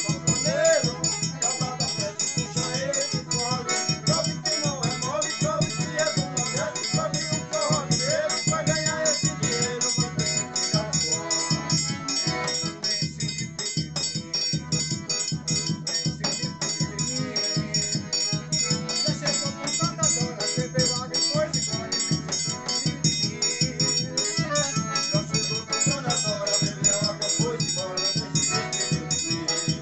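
Forró music: an accordion melody over a steady, quick percussion beat, without singing.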